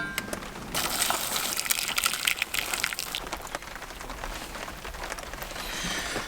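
Rain pattering on a surface, as many fine drops. There is a sharp click at the very start, and the patter is denser from about one to three seconds in, then lighter.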